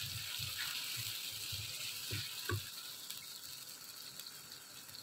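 Ghee sizzling in a karahi as onions and a ginger, garlic and green-chilli paste are fried. A wooden spatula scrapes and knocks the pan in quick, regular strokes over the first two and a half seconds, and the sizzle grows fainter toward the end.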